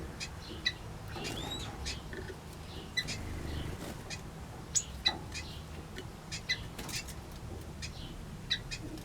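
Small aviary birds, finches and waxbills, giving short, scattered chirps and call notes, with one brief whistled glide, over a low steady background hum.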